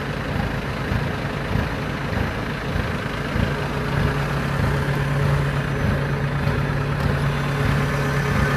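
Diesel engine of a rice combine harvester running steadily; about three and a half seconds in a steady low hum comes up out of the engine noise and holds.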